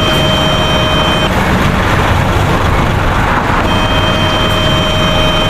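Steady, loud vehicle running noise for a demonstrated toy double-decker bus. A high electronic tone sounds over it twice: once until about a second in, and again from about two-thirds of the way through.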